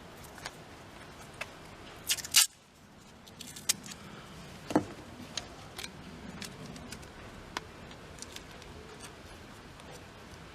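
Scattered light clicks and taps, with a short louder scraping rattle about two seconds in.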